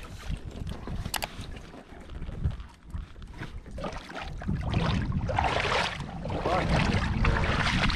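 Wind rumbling on the wearable camera's microphone, with a few sharp handling clicks in the first half. It grows louder from a little past the middle.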